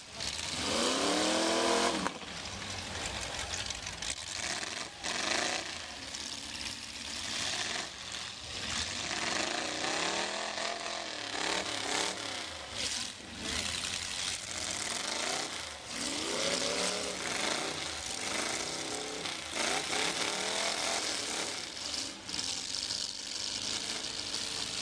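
Demolition derby cars running with loud, rough engines, revving hard in repeated surges whose pitch rises and falls, the strongest about a second in, over a steady engine din with occasional knocks of car bodies ramming.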